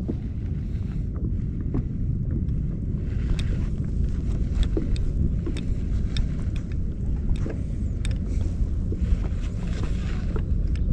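Wind buffeting the microphone in a steady low rumble, with scattered small clicks and ticks and short stretches of soft hiss.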